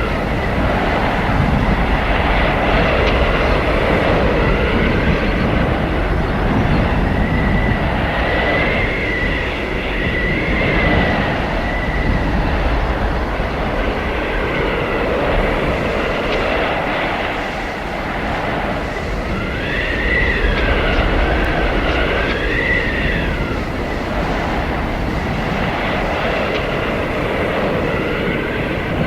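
Blizzard wind howling: a steady rush of gusting wind that swells and eases. High whistling tones rise and fall over it, most clearly about nine to eleven and twenty to twenty-three seconds in.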